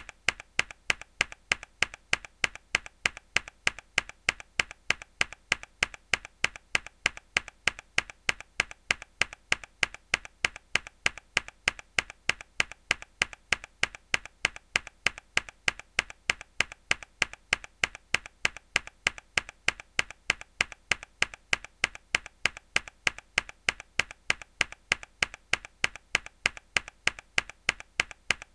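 A single hard key press on a mechanical keyboard, the same sharp click looped over and over at an even pace, several times a second, with a bright, clacky top.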